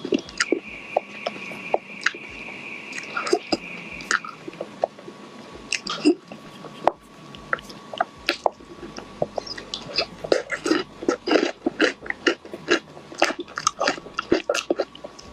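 Cake being chewed and bitten up close: wet mouth clicks and smacks that come thicker and faster in the second half. A faint steady high tone sounds under the first four seconds.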